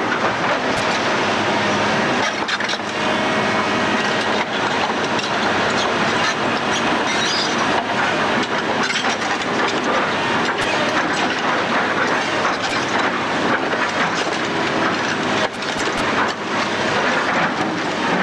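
Building demolition: a dense, continuous clatter of rubble being broken up, with frequent sharp cracks.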